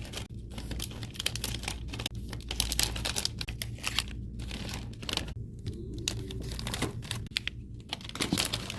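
Wrapped protein bars being handled and dropped into a snack bin: quick, irregular clicks and taps with crinkling of plastic wrappers.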